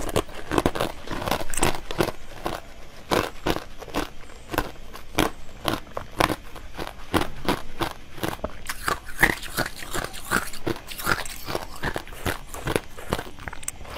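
Close-miked biting, crunching and chewing of a red bird-shaped candy on a stick: sharp crunches a few times a second.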